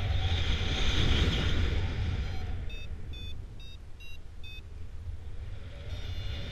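Wind rushing and buffeting over the microphone in flight, with a paragliding variometer giving about five short beeps in quick succession midway through, the beeping that signals the glider is climbing in lift.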